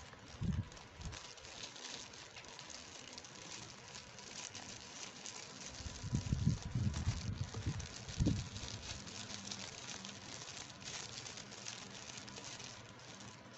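Plastic toy packaging being handled and opened, crinkling and crackling steadily, with a few soft thumps about half a second in and again around six to eight seconds in.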